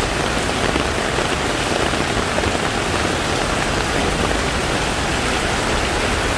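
Heavy tropical downpour: dense, steady rain drumming on surfaces.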